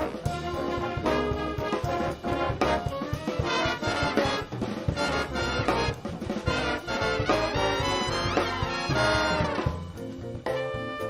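A student band with a strong brass section of trumpets and trombones playing a busy passage of quick notes over a steady bass, with a downward slide about nine seconds in and a held chord near the end.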